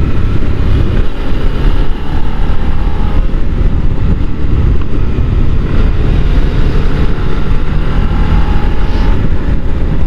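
Motorcycle on the move: wind rushing over the rider's helmet microphone, with a Honda NC750 DCT's engine running underneath.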